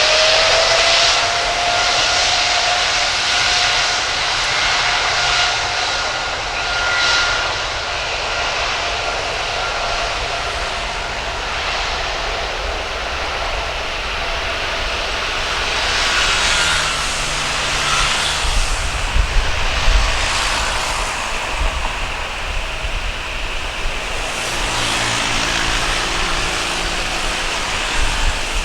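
Boeing 777 freighter's jet engines at take-off power: a whine rising in pitch and then holding steady over a continuous roar, with deep rumble building in the second half.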